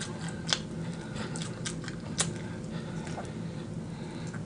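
Mouth noises of someone eating crispy fried chicken wings: irregular sharp crunches and wet clicks of chewing, with a steady low hum beneath.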